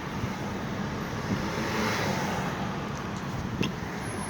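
Cabin road noise of a car being driven through town: a steady blend of engine and tyre noise that swells slightly about two seconds in.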